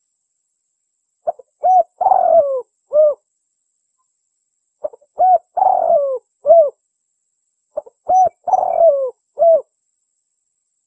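Spotted dove (tekukur) cooing: three repeated phrases about three seconds apart, each a couple of short coos, then a longer coo that falls in pitch, then a final short coo. It is the 'kuk dua' call of a contest bird, used as a lure to bring wild spotted doves in.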